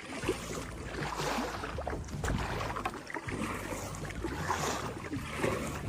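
Kayak paddle dipping and pulling through the water, a splashing stroke every second or so, with some wind on the microphone.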